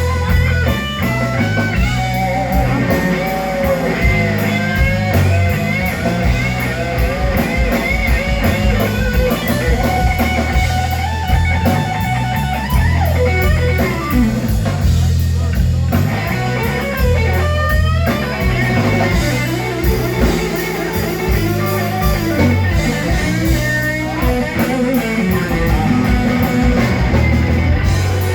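Live blues band playing a slow blues, an electric guitar leading with bent, gliding notes over bass and drums.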